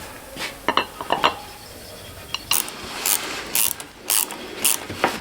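Hand tools at work on a motorcycle: a few sharp metal clinks, then a socket ratchet worked in short rasping strokes, about two a second.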